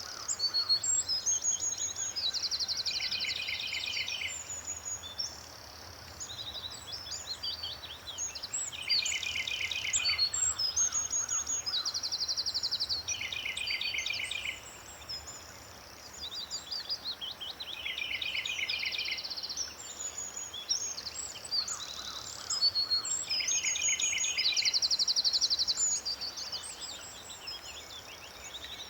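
Songbirds singing: a song of rapid trills repeats about every five seconds, with short high chirps in between.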